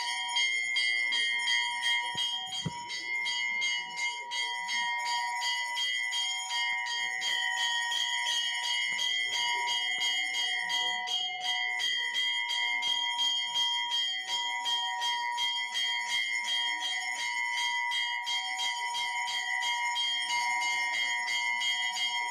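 Temple bells rung rapidly and without pause, many strikes a second over a steady, many-toned ringing.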